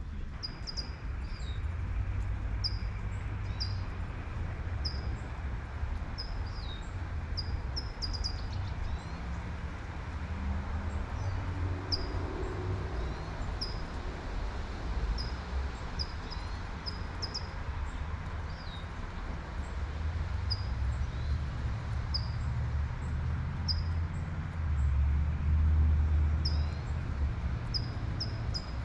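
Light steady rain hiss with a bird repeating short high chirps, about one or two a second. Low rumble of road traffic underneath, swelling as a car passes near the end.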